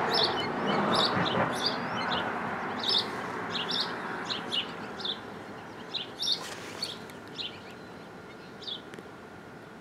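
Small birds chirping in short, high, repeated calls, about one or two a second, that stop near the end. Under them is a soft rushing background noise that fades over the first few seconds.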